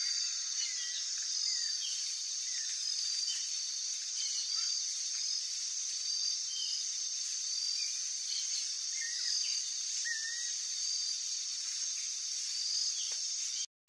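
Outdoor nature ambience: a steady high insect drone with scattered short bird chirps over it. It cuts out abruptly just before the end.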